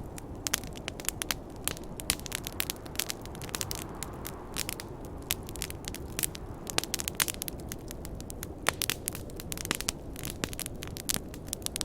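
Wood campfire crackling, with frequent sharp irregular pops and snaps over a steady low rushing noise.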